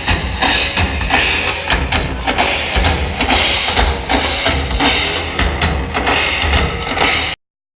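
Loud live percussion: massed bass drums and snare-type drums played in a fast, dense rhythm. It cuts off abruptly near the end.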